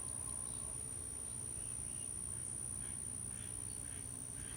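Garden ambience: a steady, high-pitched insect drone over a low background hum, with soft sounds repeating about twice a second near the end.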